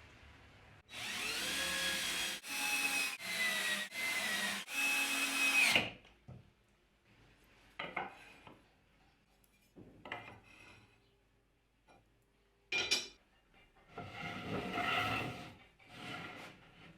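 A tool working wood. A loud run of sawing strokes lasts about five seconds, then several shorter, separate scrapes and knocks follow.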